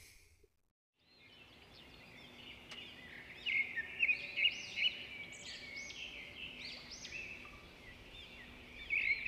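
Wild birds singing in woodland: quick, repeated high chirps and trills that start about a second in and keep going.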